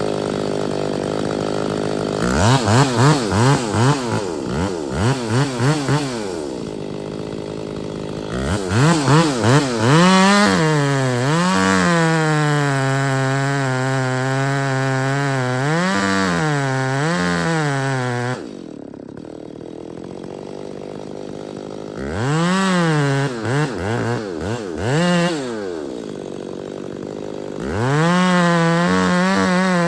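Two-stroke chainsaw revved in a run of quick blips, then held at full throttle for several seconds with its pitch sagging and recovering as it cuts wood. It drops back to idle twice, with more blips between, and goes back to full throttle near the end.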